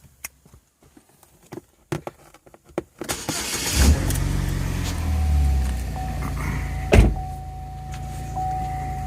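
A few light clicks, then a car engine starts about three seconds in and runs at a steady idle. A steady high tone comes in partway through, and there is a single sharp thump near the end.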